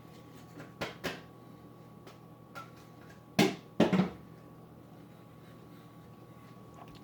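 A few short knocks and clatters: two soft ones about a second in, then louder ones at about three and a half and four seconds, over a faint steady hum.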